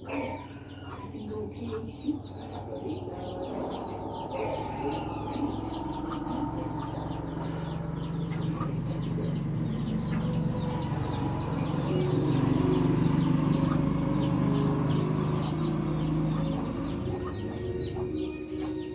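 Birds chirping in rapid, repeated short high calls, over a low steady hum that grows louder in the middle and fades near the end.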